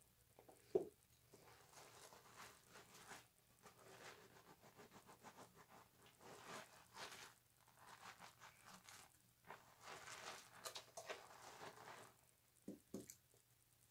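Faint, wet rubbing and squishing of a bar of soap being worked into a lather, in uneven strokes with short pauses. A single sharp knock comes about a second in, and two small knocks near the end.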